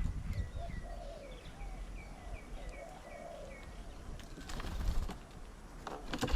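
Birds at a bird table: a bird repeating short, high, downward-slurred chirps about three a second, over low cooing of doves. In the second half come two brief rough flurries, like wings flapping.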